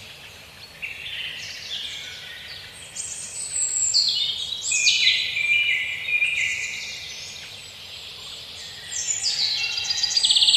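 Songbirds singing: a run of quick phrases of stepped and sliding high notes, with a faster, louder trill near the end.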